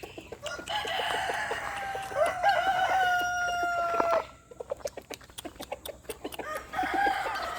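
Rooster crowing: one long crow of about three and a half seconds, its pitch falling slightly, then another crow beginning near the end, with chickens clucking around it.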